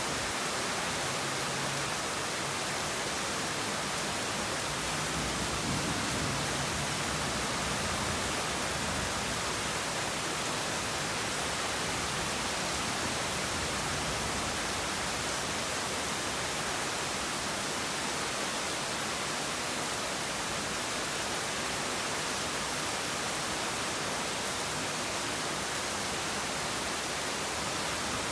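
Heavy rain falling steadily, an even hiss with no distinct drops or thunderclaps.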